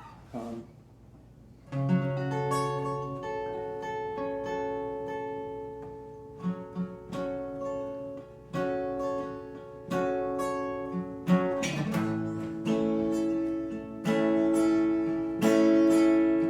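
An inexpensive acoustic guitar picked and strummed, chords ringing out, starting about two seconds in and growing louder near the end.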